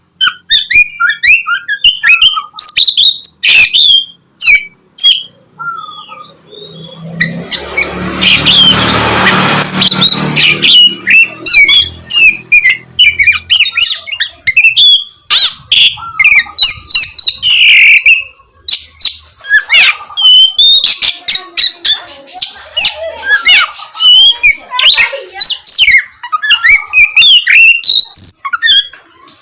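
Oriental magpie-robin (kacer) singing a loud, rapid, varied song of whistles, chirps and harsh notes with almost no pauses. For a few seconds, about seven seconds in, a broad rumbling noise swells up under the song.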